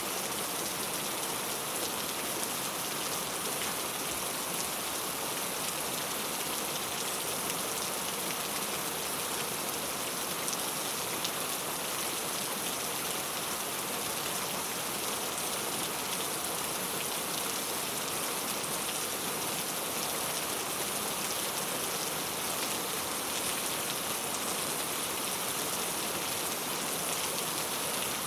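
Steady rain falling on a clay tile roof, a continuous patter of drops with fine scattered ticks.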